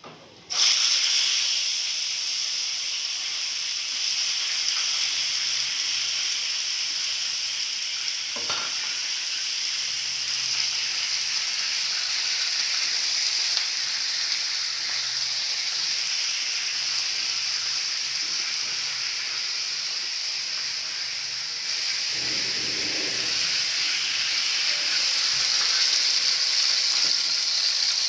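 Raw minced chicken hitting hot oil in a non-stick frying pan: a sudden loud sizzle starting about half a second in, then a steady sizzle as the mince fries and is stirred with a silicone spatula.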